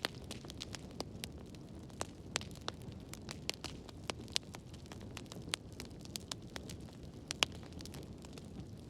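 Wood fire crackling in a fireplace: irregular sharp pops and snaps from the burning wood over a steady low rush of the flames, with one louder pop a little past seven seconds in.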